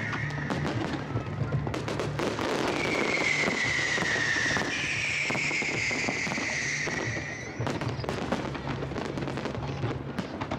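Aerial fireworks going off in rapid succession, a dense run of bangs and crackles. Through the middle a high whistling tone holds and falls slightly in pitch.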